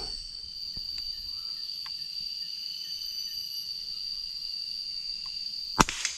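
Forest insects droning steadily at one high pitch. A single sharp knock comes near the end, followed by a fainter one.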